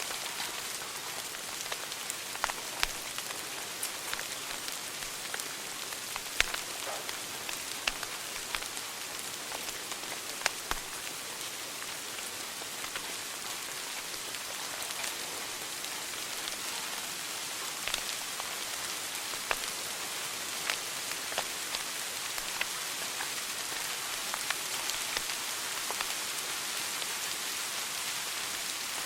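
Fire burning in a fireplace, crackling: a steady hiss with sharp pops and snaps at irregular intervals, a few of them louder than the rest.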